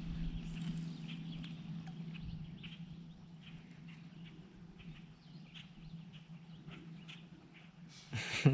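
Small birds chirping in short, scattered calls over a steady low hum. A brief louder burst comes near the end.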